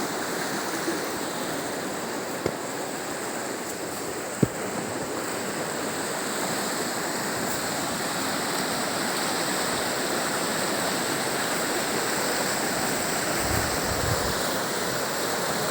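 Mountain river rushing steadily over rocks, a continuous roar of water. Two brief sharp clicks about two and four seconds in, and a few low thumps near the end.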